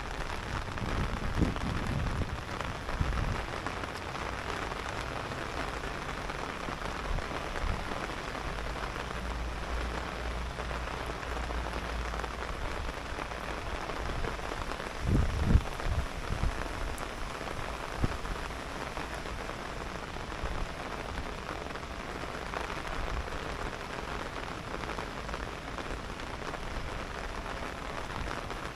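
Steady rain falling, an even hiss throughout, with a few low thumps about a second or two in and again around halfway.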